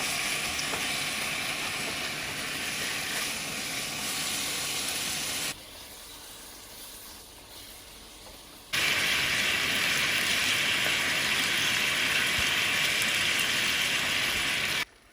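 Chicken wings sizzling in sauce over the heat, a steady hiss. It drops abruptly to a much quieter background for about three seconds midway, then comes back at full level.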